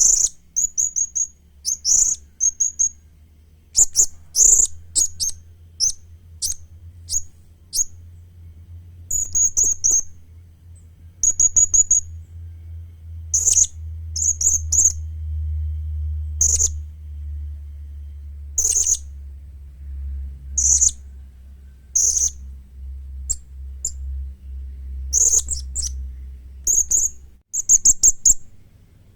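Young blue-crowned hanging parrot (serindit) calling: short, very high-pitched chirps at irregular intervals, singly and in quick runs of two or three, over a low steady hum that stops shortly before the end.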